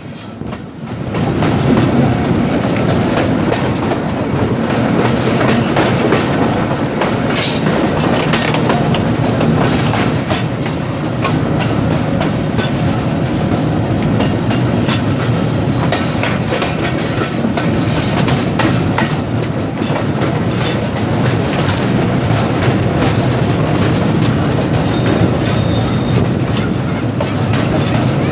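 Passenger train running along the track, heard from its open doorway: a steady rumble of wheels on rails with repeated clicking over the rail joints. It dips briefly at the very start, then runs steadily.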